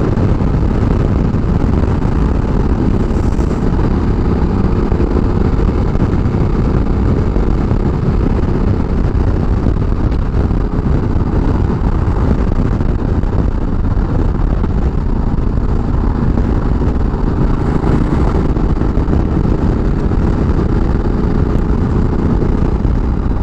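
Loud, steady riding noise picked up by a helmet-mounted microphone with the visor closed: wind rushing over the helmet, with the Ducati Multistrada 1200S's L-twin engine running underneath.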